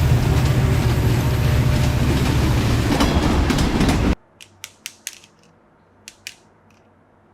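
Train running with a loud, low rumble that cuts off abruptly about four seconds in, followed by a few light, sharp clicks.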